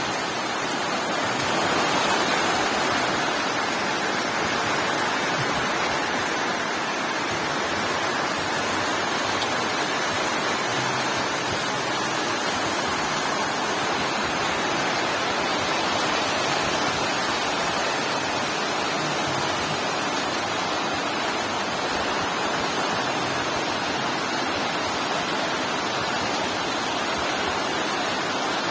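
Heavy rain pouring down, a steady even rush of noise with no let-up.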